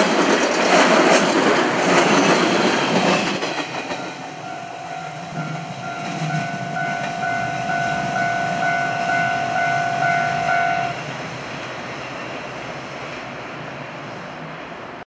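JR West 113-series electric train passing close with loud wheel and running noise, then fading as it draws away. From about four seconds a steady high ringing tone with overtones sounds over the receding rumble, stopping about seven seconds later.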